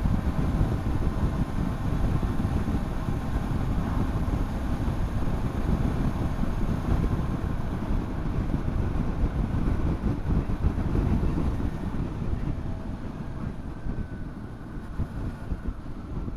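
Wind rushing over the microphone of a moving motorcycle, with the engine's steady drone underneath. The noise drops somewhat near the end.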